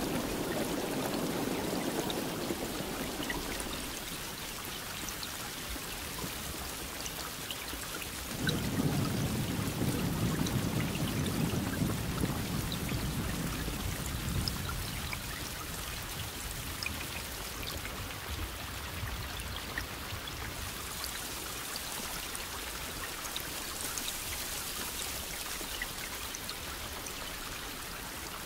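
Steady rain falling, a continuous hiss of drops, with two rolls of thunder: a short rumble at the start and a longer, louder one from about eight seconds in that fades out over several seconds.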